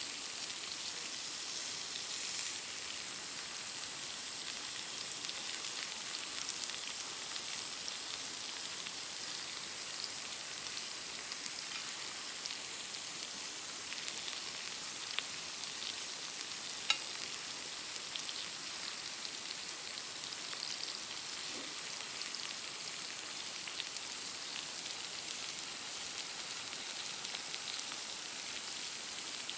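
Steak sizzling over a wood campfire: a steady crackling hiss, with two sharp pops about halfway through.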